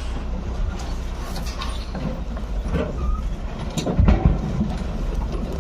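14-wheeler truck running with a steady low rumble, with a loud knock about four seconds in.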